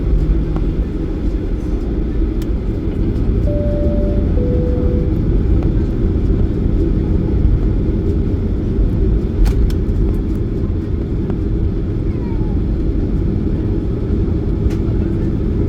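Steady low rumble of an airliner's jet engines and airflow heard inside the passenger cabin. About three and a half seconds in, a two-note cabin chime sounds, the second note lower.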